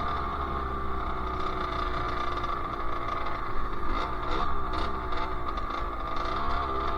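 Sherco SM-R 50's small two-stroke engine running under way at a fairly even speed, its pitch dipping and picking up again with the throttle a few times.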